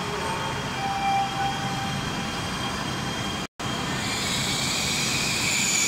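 High-speed electric multiple-unit train moving out along the platform: a steady rush with several high whining tones that grow stronger in the last couple of seconds. The sound cuts out completely for a split second about three and a half seconds in.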